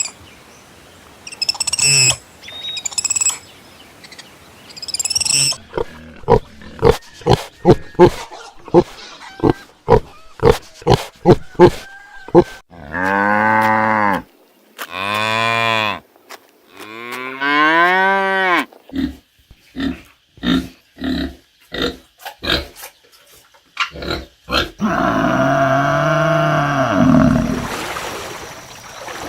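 Farm animals calling one after another. Short high chirps and a run of quick clipped calls come first, then several long, low, drawn-out calls that rise and fall in pitch, among them cattle mooing.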